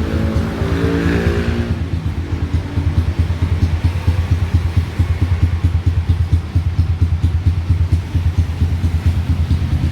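Kawasaki D-Tracker 150's single-cylinder four-stroke engine idling through an aftermarket Over Racing exhaust, a steady rapid putter.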